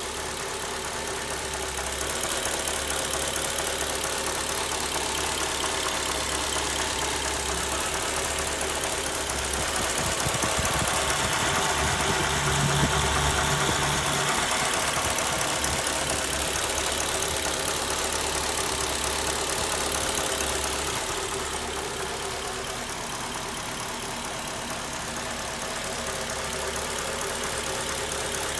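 Mercedes CLK 500's V8 engine running with a continuous rattling clatter, a sound of unknown cause that the owner takes for a defect. It grows louder for a stretch in the middle, then settles back.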